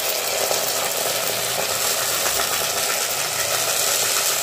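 Ground spice paste sizzling steadily in hot oil in a cooking pot, the wet masala just added to browned onions.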